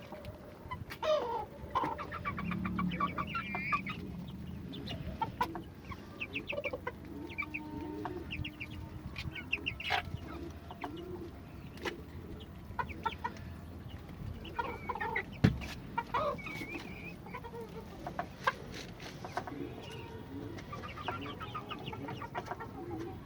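Domestic chickens clucking, many short pulsed calls overlapping, with scattered sharp knocks; the sharpest knock comes about 15 seconds in.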